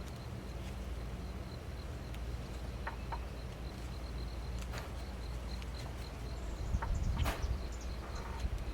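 Carving knife cutting into a small wooden block in a few short, scattered slices, the loudest about seven seconds in, over a low steady hum.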